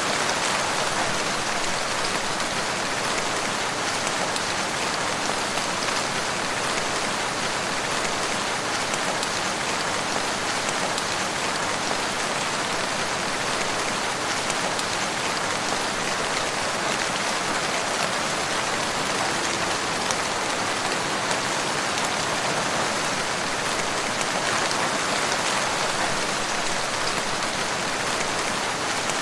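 Steady rain pattering on a surface: an even, unbroken hiss flecked with fine ticks of individual drops.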